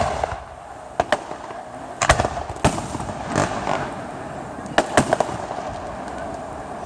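Fireworks shells bursting overhead: a string of sharp bangs, several in quick pairs, with crackling in between.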